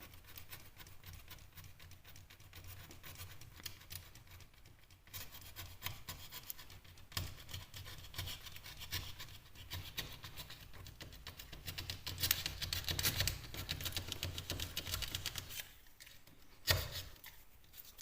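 A hand tool scraping along the cut edges of plasterboard in quick repeated strokes, shaving a slight chamfer onto the edges to clean them up for filling. It is busiest about two-thirds of the way through, and a single sharp knock comes near the end.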